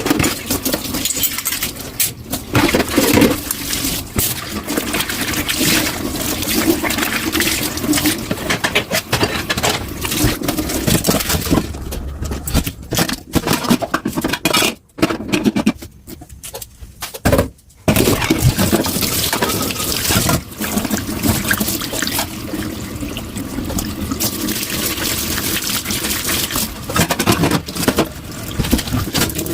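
Tap water running into a kitchen sink during dishwashing, with dishes clinking and knocking. The water sound drops out for a couple of seconds past the middle.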